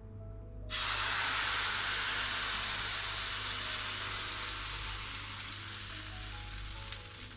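Pancake batter poured into a hot frying pan: a sudden loud sizzle starts about a second in and slowly dies down as it cooks. Quiet background music plays under it.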